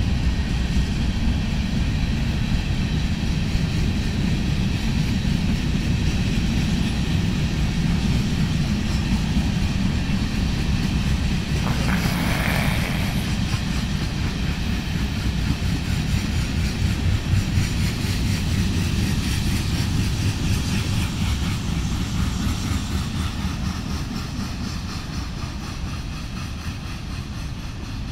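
Union Pacific freight train rolling past close by: a steady, heavy rumble of wheels on rail, with a brief higher-pitched noise about twelve seconds in. The rumble fades slightly near the end.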